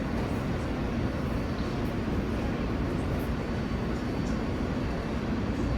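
New York City Subway L train (R143/R160 cars) giving off a steady low rumble and hum, with a few faint ticks.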